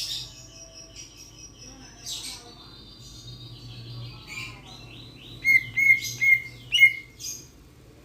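Raja perling, a Sulawesi starling, calling with high chirps and whistles. After about five and a half seconds come four loud, sharp notes in quick succession.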